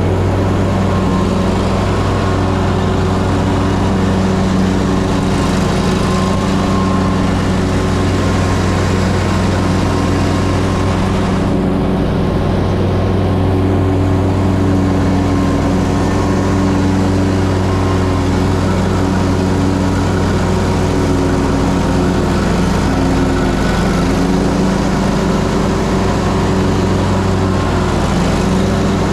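Ferris Z3X zero-turn mower's 37 hp engine running steadily, with small shifts in pitch.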